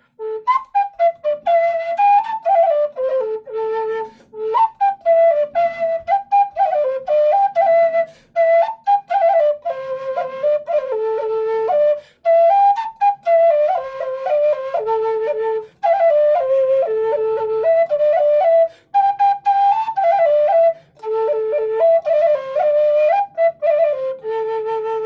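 Flute playing a quick melody of short, lively notes in repeated phrases, with brief breaths between them.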